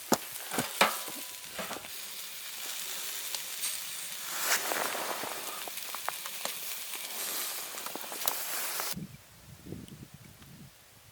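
Sizzling hiss, as of food frying in a hot pan, with scattered sharp pops and crackles. It cuts off abruptly about nine seconds in.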